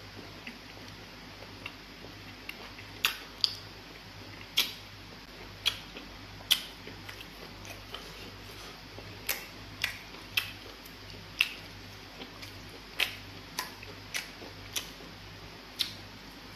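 Wet lip smacks and mouth clicks from someone chewing soft pounded fufu with egusi pepper soup: sharp, short smacks at an irregular pace, roughly one a second, over a faint steady low hum.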